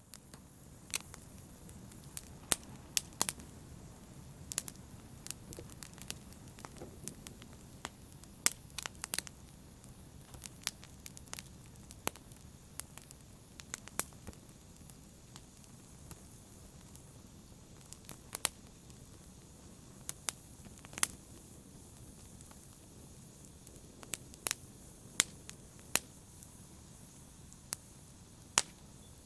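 Fire burning in a fireplace: a steady low rumble of flames with sharp, irregular crackles and pops, roughly one or two a second.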